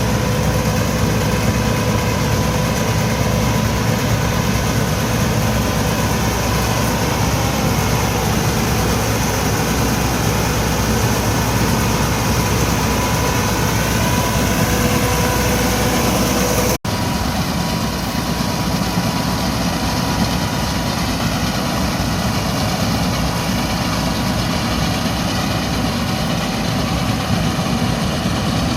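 Massey Ferguson 385 tractor's diesel engine running steadily while driving a wheat straw chopper off its PTO, a dense mechanical din with a faint steady whine over it. The sound cuts out for an instant about two-thirds of the way through, then carries on slightly quieter.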